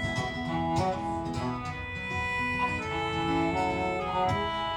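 Instrumental break in a live folk song: guitar backing under a sustained, reedy melody line playing a short tune between verses.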